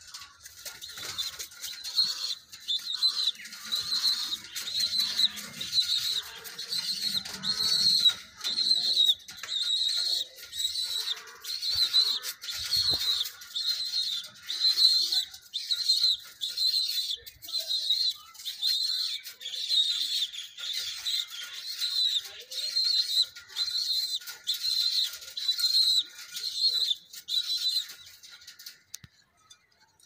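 A bird chirping steadily: a short high-pitched chirp repeated about three times every two seconds, stopping near the end.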